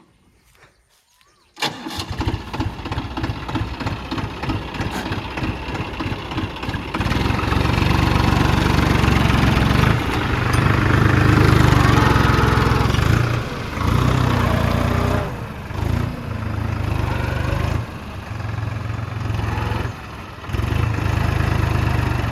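Tractor diesel engine running loud, cutting in abruptly after a quiet first second and a half; from about seven seconds it gets louder, with repeated surges and short dips.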